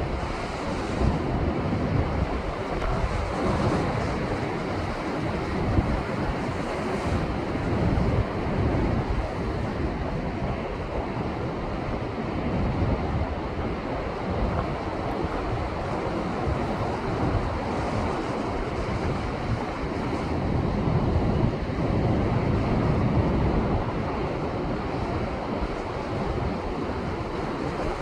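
Rough sea surf crashing and washing over shoreline rocks in a steady roar that swells and ebbs, with wind buffeting the microphone.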